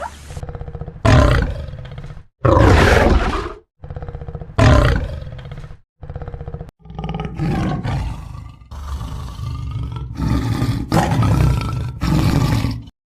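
A big cat roaring and growling in a string of spliced clips: three loud roars in the first six seconds, then longer, rougher growls, each clip cut off suddenly.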